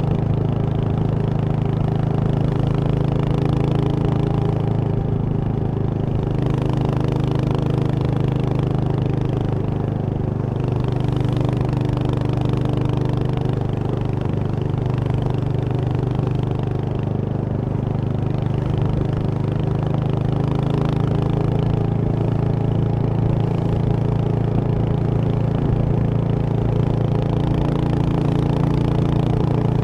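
Royal Enfield Hunter 350's single-cylinder 349 cc engine running steadily at low revs, its exhaust note holding an even pitch with only small shifts.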